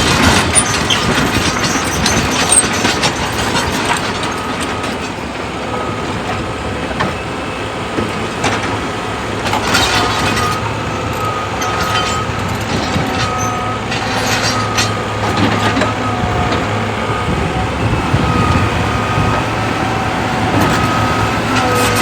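Heavy machinery running with a steady low engine drone and an on-and-off high whine, broken by clattering bursts of rock and metal, the biggest about ten seconds in.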